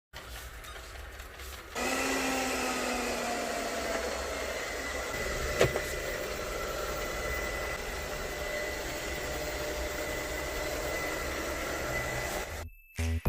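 iLife V5s Pro robot vacuum cleaner running: a steady motor whir with a thin high whine, which gets louder about two seconds in. There is a single click around the middle.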